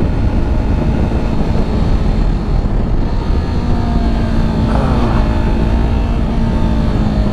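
Yamaha R3's parallel-twin engine running under way, heard from the rider's position with heavy wind rumble on the microphone. About halfway through, the engine's pitch falls as the revs drop.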